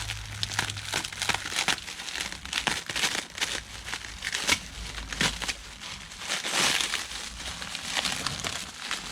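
Protective wrapping being crinkled and pulled off a freshly machined crankshaft: irregular crackling and rustling of the wrap material.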